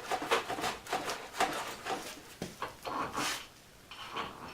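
Irregular clicks, taps and scrapes of hands handling a milling machine's coolant line and its fittings while hooking it up, with a louder scrape about three seconds in.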